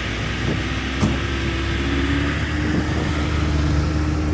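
A car engine running with a steady low rumble and a brief sharp click about a second in.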